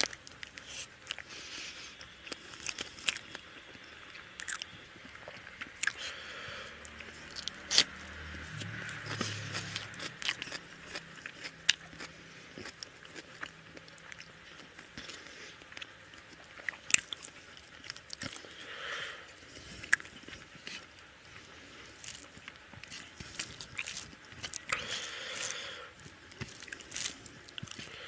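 Close-up mouth sounds of a man chewing rice and chicken curry, with frequent wet smacks and clicks, mixed with his fingers squishing and mixing curry-soaked rice on a metal plate.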